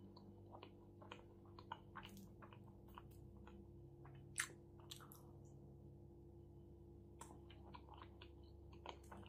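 Close-miked, quiet chewing of a mouthful of shawarma: soft mouth clicks scattered irregularly, with a louder one about four and a half seconds in.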